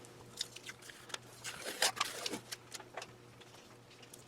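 Light, scattered clicks, taps and rustling from parts and tape being handled on a workbench, densest in the middle, over a faint steady low hum.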